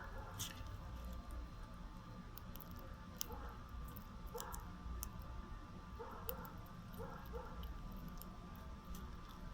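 Doves giving short, low coos every second or so, some in quick pairs, with scattered sharp high clicks.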